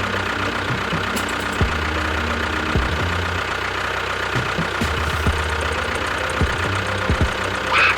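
An engine idling steadily with a low throb, broken by irregular low thumps. A short falling chirp sounds near the end.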